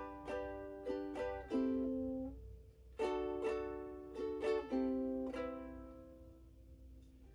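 Ukulele chords strummed in a short riff, a handful of chords, a brief pause, then a second run of chords. The last chord is left ringing and fades out over the final two seconds.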